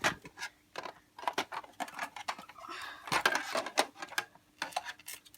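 Hard plastic parts of a toy horse truck clicking, knocking and rattling as they are handled and pried at to get a stuck door open, with a rough scraping rustle in the middle.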